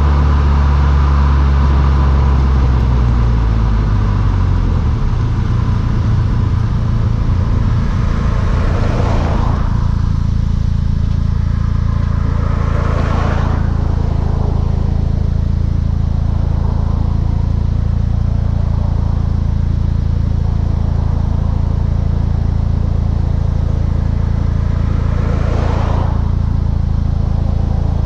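Volkswagen Mk6 GTI's turbocharged 2.0-litre four-cylinder running through a Beluga aftermarket exhaust. A strong low note eases off over the first few seconds and then settles into a steady low drone. Three brief rushing swells rise over it about a third of the way in, shortly after, and near the end.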